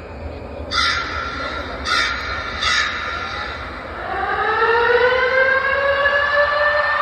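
Three loud crow-like caws about a second apart, then a long wail that rises slowly in pitch and holds, like a siren.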